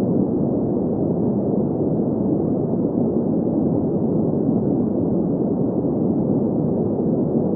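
Synthetic green noise: a steady, even hiss weighted toward the low-middle range, with the highs cut away, unchanging throughout.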